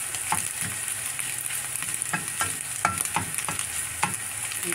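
Chopped preserved radish sizzling in hot oil in a non-stick wok, with a steady hiss. A spatula scrapes and knocks against the pan several times as the radish is stirred.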